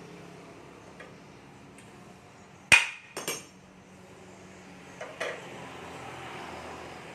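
Hard metal-on-metal clinks of workshop tools: one sharp ringing strike a little under three seconds in, a quick double strike right after, and a softer pair of knocks about five seconds in.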